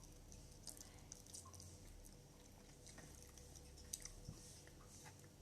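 Faint close-up chewing with soft wet mouth smacks and scattered small clicks, as of a person eating.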